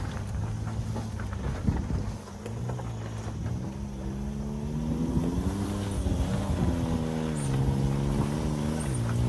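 A Suzuki Jimny's small 660 cc three-cylinder engine working off-road over loose river cobbles, its note rising about three seconds in, dipping, then climbing again near the end as it pulls up out of a dip. A few sharp knocks in the first two seconds.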